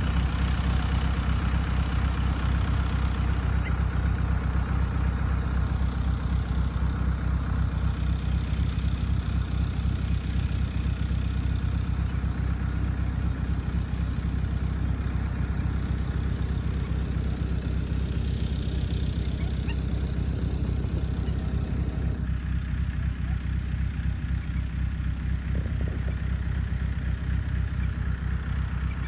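Tractor engine running steadily, a low even hum with a fast pulse that doesn't change.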